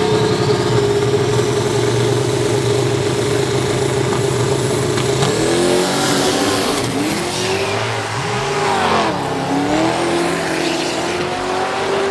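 Car engine revved hard and held at a steady high pitch for about five seconds, then dropping and climbing again in pitch several times.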